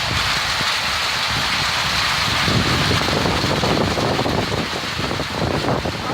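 Heavy monsoon downpour: torrential rain pouring steadily in a dense hiss, with an uneven low rumble of storm wind buffeting the microphone.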